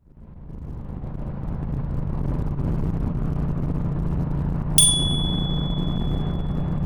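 Motorcycle engine and wind rumble while riding, fading in over the first two seconds and then steady. Nearly five seconds in, a single bright ding rings on for about two seconds.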